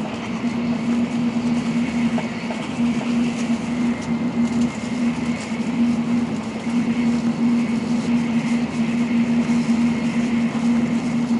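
Steady interior running noise of an N700-series Tokaido Shinkansen, heard inside the passenger cabin: a constant rushing rumble with a low, even hum.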